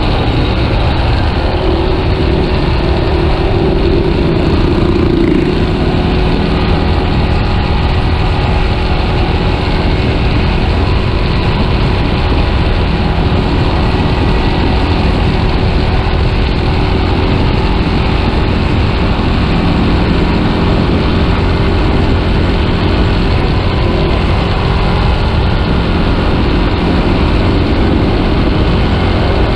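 Yamaha Scorpio motorcycle's single-cylinder engine running steadily while riding, over a dense low rumble of road and wind noise.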